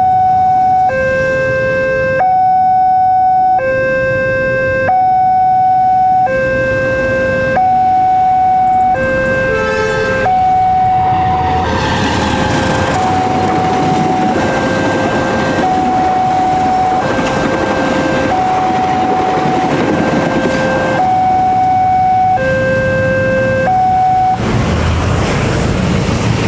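Railway level-crossing warning alarm sounding two alternating tones, a higher and a lower one, each held about a second and a half, signalling an approaching train. From about twelve seconds in, the noise of a passing train swells under the alarm. The alarm stops shortly before the end while the train noise continues.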